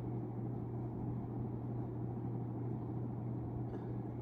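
A 1991 42-inch hugger ceiling fan running steadily on medium speed: a constant low motor hum with a soft rush of air.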